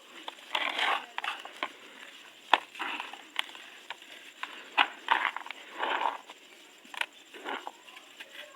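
Dry, dusty, crunchy material being crumbled in a tub: irregular crunches mixed with a few sharp snaps, the sharpest about two and a half and five seconds in.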